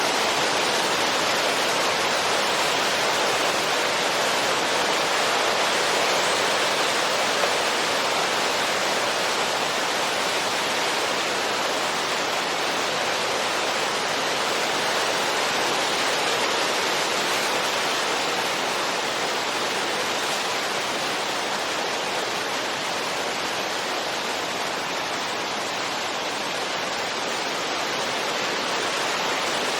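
Steady rushing wind, an even hiss that swells and eases only slightly.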